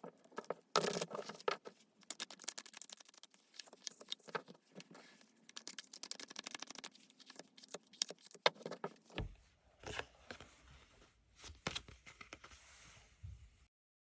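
Tarot cards being shuffled and handled: a dense run of quick papery clicks and rustling, which changes about nine seconds in and cuts off suddenly near the end.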